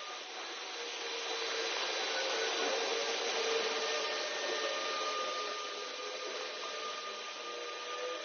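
Automated pulsed laser cleaning system working on a railway wheelset: a steady hiss with a few faint steady whine tones, growing a little louder in the middle.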